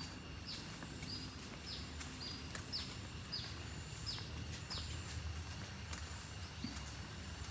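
A bird calling a run of short, high notes that drop in pitch, about two a second, stopping about five seconds in, over a faint steady high insect drone and low outdoor rumble.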